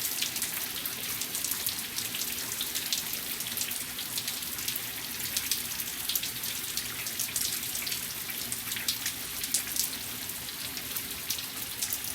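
Heavy rain pouring steadily: a dense even hiss with many sharp individual drop hits close by.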